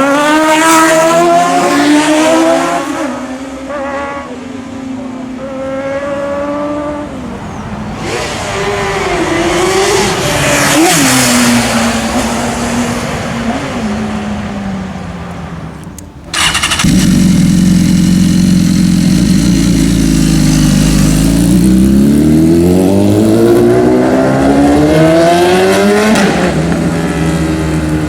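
Sport motorcycle engines accelerating hard, the pitch climbing steeply and then falling away as bikes pass. About halfway through the sound changes abruptly and another bike runs loud, its pitch dipping and then climbing high again before falling.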